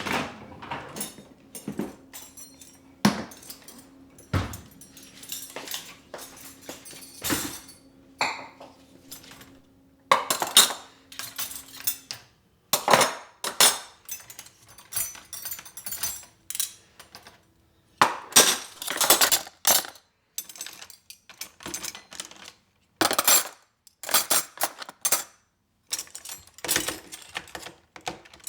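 Dishes, glassware and utensils being handled: a long run of separate clinks, knocks and clatters, some in quick clusters, with short pauses between.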